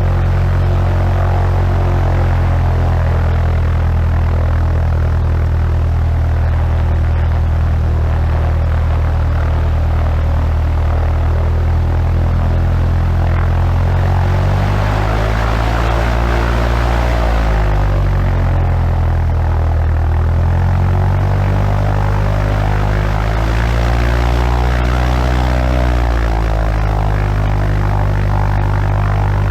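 Cessna 150's four-cylinder Continental O-200 engine and propeller running with a steady drone. The pitch dips and recovers about halfway through and again near the end as the power changes.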